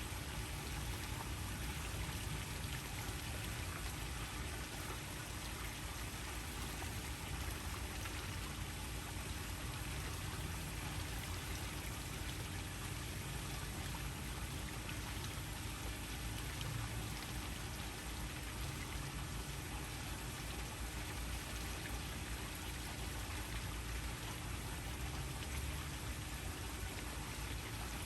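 Waterfall: a steady, unbroken rush of falling water, with a faint steady hum underneath.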